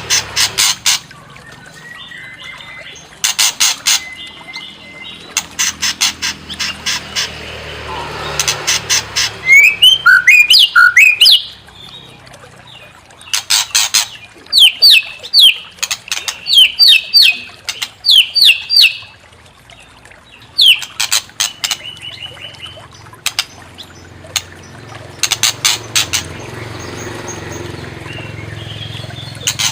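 White-rumped shama (murai batu) singing: loud bursts of fast, harsh rattling notes alternating with runs of sharp whistled notes and quick pitch glides.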